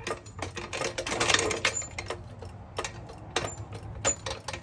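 A jack being set under the engine and pumped up: a run of sharp metallic clicks and clunks, with a scraping stretch about a second in and then strokes about every two-thirds of a second.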